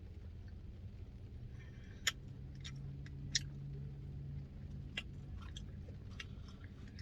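A person chewing a mouthful of pecan pie Blizzard ice cream, with sharp, wet mouth-smacking clicks every second or so.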